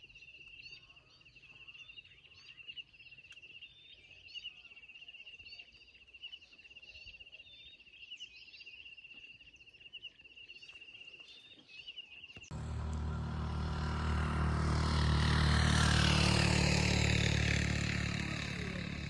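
Birds chirping over a steady, high, pulsing trill. About twelve seconds in, a motorcycle engine and road noise cut in suddenly, swell to their loudest a few seconds later, then ease slightly.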